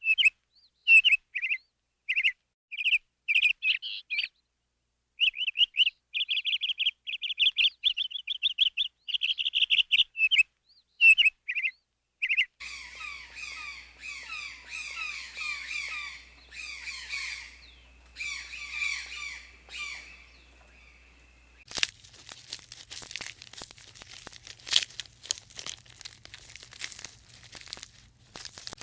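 Small birds chirping in rapid, high trilled bursts, then a denser chatter of many chirps. About 22 seconds in, this gives way to irregular crackling and rustling clicks.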